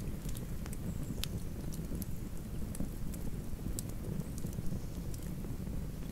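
Wood campfire burning: a steady low rushing of flames with scattered sharp crackles and snaps, the loudest about a second in.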